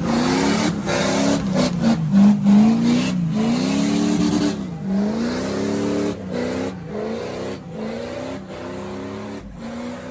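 Diesel pickup truck engine revved hard over and over, its pitch rising and falling about once a second, loudest in the first half and easing toward the end.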